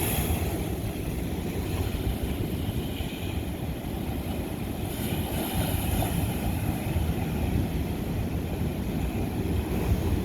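Ocean surf on lava rock: a steady low rumble of waves, with a fainter hiss of foamy water rising about five seconds in.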